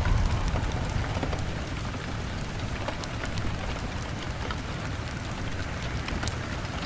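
Steady rain on a window, with scattered sharp crackles and pops from a wood fire. A low rumble is strong at the start and eases over the first two seconds.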